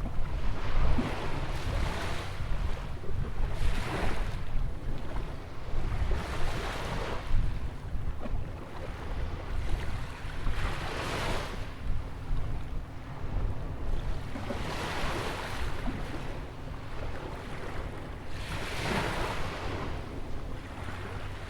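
Atlantic surf breaking on a sandy beach: a wash of breaking water that swells and fades every few seconds, over a constant low rumble.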